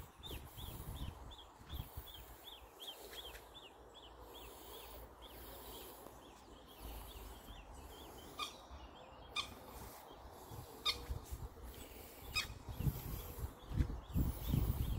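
Small songbird singing a fast run of short high chirps, about four a second, that stops about five seconds in, followed by a few scattered sharp calls. Low rumbling sounds come and go, mostly near the end.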